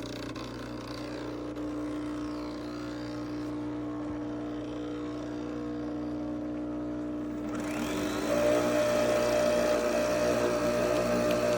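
Nespresso Vertuo Pop+ coffee machine running with a steady motor hum. About eight seconds in, the hum steps up to a higher pitch and gets louder.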